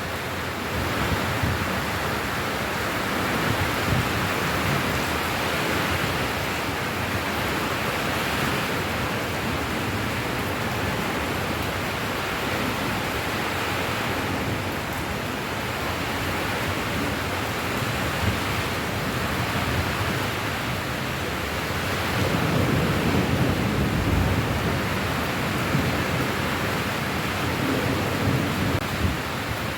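Steady heavy rain, an even rushing hiss, with a low rumble swelling up about three quarters of the way through.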